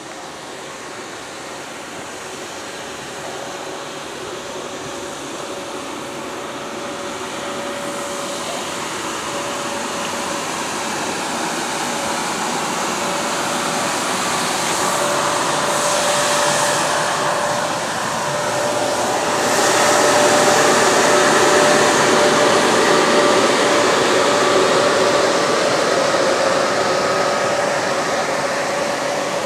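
A train approaching and passing, its noise building steadily over about twenty seconds with a steady whine held through it. It is loudest a little past the middle, with a brief dip just before.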